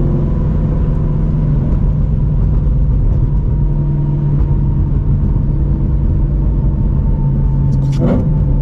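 Modified Shelby GT350's 5.2L Voodoo flat-plane-crank V8, breathing through long-tube headers, X-pipe and Borla catback exhaust, droning steadily at light cruise. A brief rising squeak comes near the end.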